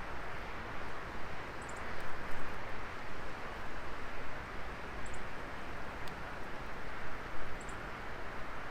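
Wood fire burning in a Coleman Fire Disk fire pit: a steady hiss with a few faint crackles. A faint, short, high double chirp repeats about every three seconds.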